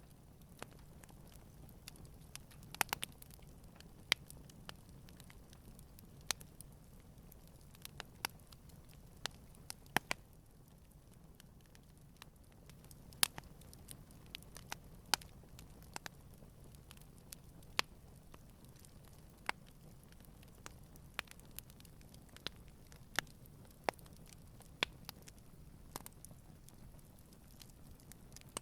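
Campfire wood crackling gently: sharp irregular pops and snaps, about one or two a second, over a faint low rumble of burning.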